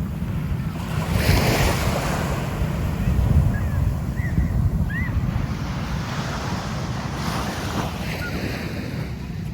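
Sea waves washing onto a beach, swelling twice, with wind rumbling on the microphone.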